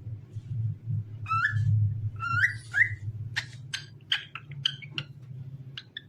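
Cockatiel singing: three whistled notes, then a quick run of short, sharp chirps, over a low steady hum.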